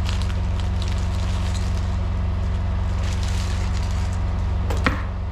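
Steady low hum of a semi truck's diesel engine idling, with faint scattered clicks and rattles and one sharp click near the end.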